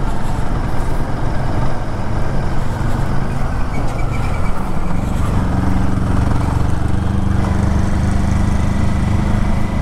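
Royal Enfield Himalayan 450's single-cylinder engine running while riding, with road and wind noise. The engine is new and being run in below 6000 rpm. About five seconds in, the engine hum grows stronger and steadier.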